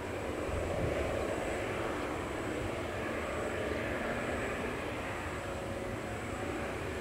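Boeing jet airliner's engines running steadily as it comes in to land: an even, continuous jet noise with a low rumble underneath.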